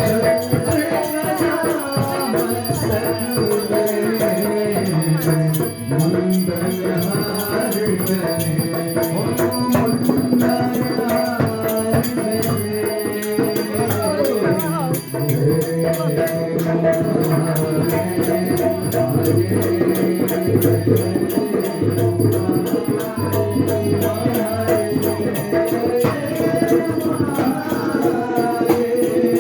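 Hindu arti devotional song: voices singing a hymn over continuous rhythmic hand percussion with a rattling, shaker-like sound.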